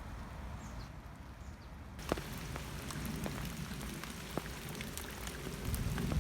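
Rain falling in a forest, a steady hiss with many separate drops ticking close by; the rain sound comes in abruptly about two seconds in. Before that there is only a faint hiss with two short high chirps.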